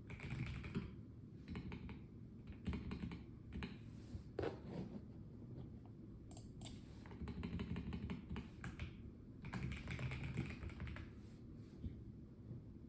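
Typing on a Melgeek Mojo84 plastic mechanical keyboard: quick runs of key clicks in bursts of a second or two, broken by short pauses. A steady low hum lies underneath.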